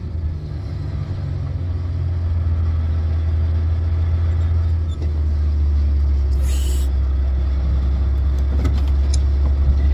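Steady low drone of a car's engine and road noise heard inside the cabin while driving, growing slightly louder over the first couple of seconds, with a short hiss about six and a half seconds in.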